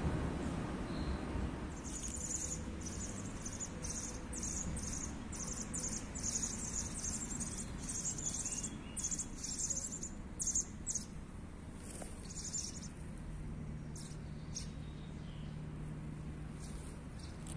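A bird chirping in a quick run of short, high calls for several seconds, then a few scattered chirps, over a steady low rumble of street traffic. A low steady hum comes in near the end.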